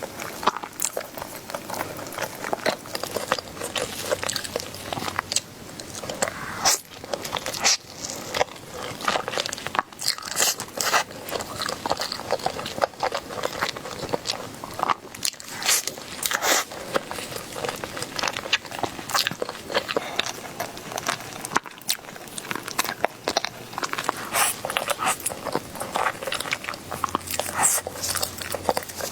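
Close-miked eating: a person biting and chewing food, with many irregular crunches and small wet clicks.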